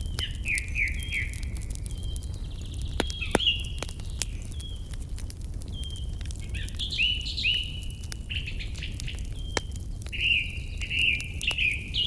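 Songbirds chirping and singing in short repeated phrases, with scattered sharp crackles and pops from a wood fire and a steady low rumble underneath.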